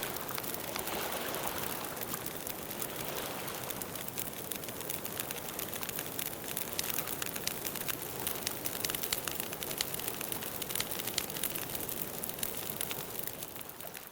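Campfire crackling: a dense run of small pops over a steady hiss, beginning to fade out near the end.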